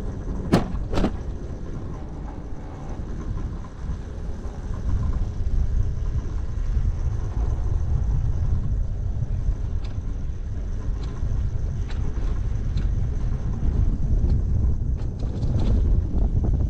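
Steady low wind rumble and road noise from riding an electric moped, whose motor runs almost silently. Two short knocks come in the first second.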